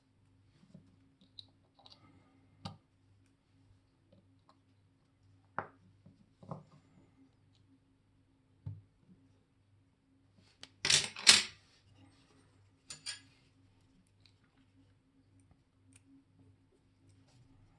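Scattered small metal clicks and taps of watchmaker's tools handling a watch, with a louder double clatter about eleven seconds in and a few more clicks soon after, over a faint steady hum.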